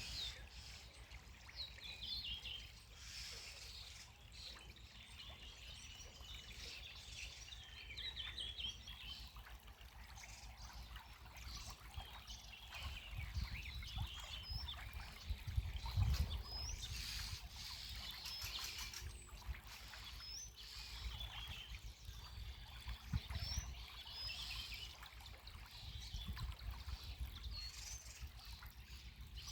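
Several small birds singing, with repeated short chirps and trills, over the steady trickle of a spring. A low rumble swells for a few seconds midway.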